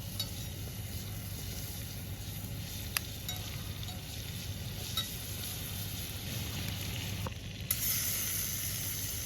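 Butter sizzling in a hot cast iron pan over a campfire, with a few sharp pops and clicks; the sizzle suddenly gets louder and brighter about three-quarters of the way in.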